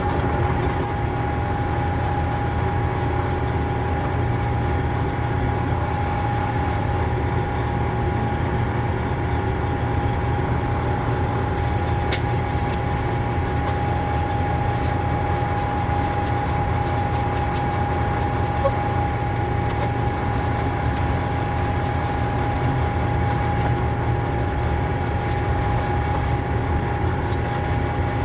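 A large engine idling steadily, with a constant whine over a low rumble and one brief click about twelve seconds in.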